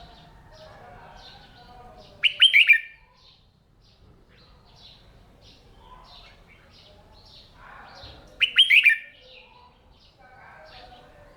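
Red-whiskered bulbul singing: two short, loud song phrases of quick sweeping notes, about six seconds apart. Faint, steady chirping of other birds underneath.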